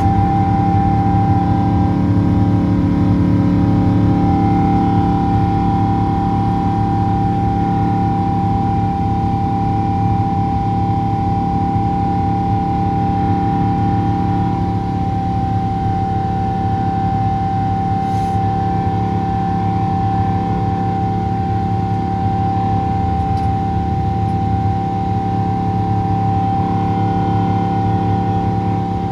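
The GE90-92B turbofan engines of a Boeing 777-200ER heard inside the cabin: a steady, loud fan whine over a deep engine drone. The whine dips slightly in pitch about halfway through.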